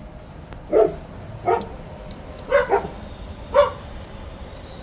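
A dog barking: four short barks about a second apart.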